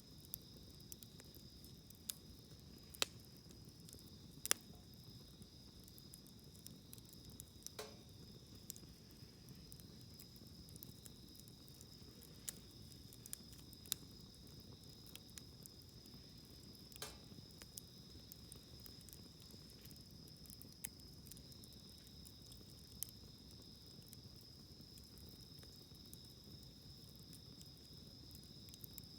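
Wood campfire crackling, with scattered sharp pops (the loudest about three and four and a half seconds in) over a low hiss, under a steady high trill of crickets.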